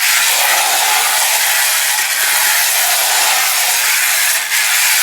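Technofix tinplate clockwork shunting locomotive running along its metal track: a loud, steady whirring rattle from the wound-up spring motor and its gears and wheels.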